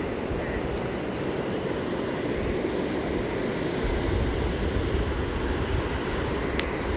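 Ocean surf washing steadily onto the beach, with wind rumbling on the phone's microphone and a brief click near the end.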